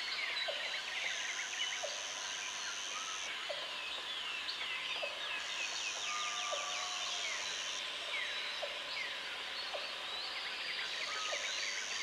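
Jungle ambience: many birds chirping and calling over one another, with a short, lower call repeating about every second and a half. A high insect buzz comes in three spells of two to three seconds: about a second in, around five seconds in, and near the end.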